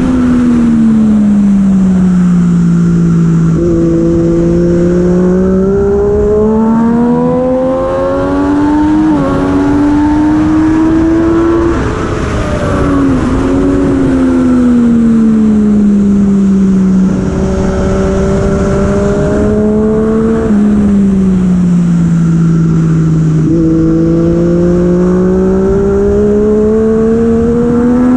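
Racing superbike engine at full throttle, its pitch climbing with each upshift, then dropping as it is shut off and shifted down. It does this twice, with a steady rush of wind over the bike throughout.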